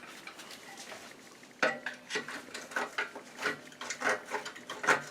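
Steel motorcycle brackets and engine mounts being rubbed down by hand: a series of irregular scraping and clinking strokes, about two a second, starting about one and a half seconds in.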